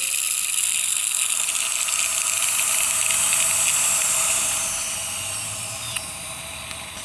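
A steady high-pitched hiss that fades away over the last few seconds, with no engine running.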